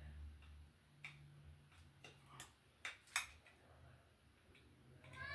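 Faint, scattered sharp clicks and light taps of hand work with small metal parts and tools on an electrical box, several about a second apart. A low steady hum stops just after the start.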